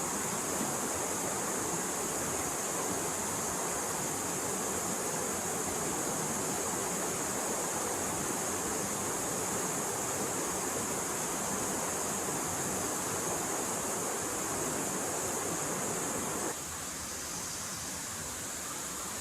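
Forest stream flowing, a steady rushing of water. About 16 seconds in it suddenly becomes quieter and thinner.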